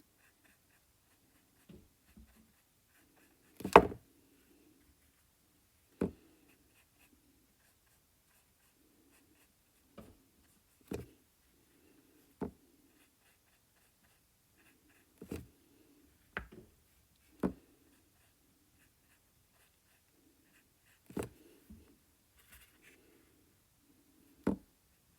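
Scattered light taps and knocks, about a dozen at uneven gaps and the loudest about four seconds in, from a paintbrush dabbing short needle-like strokes of acrylic paint.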